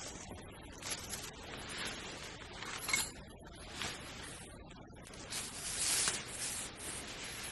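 Irregular rustling and rubbing, with a single light clink about three seconds in and a longer, louder rustle about two-thirds of the way through.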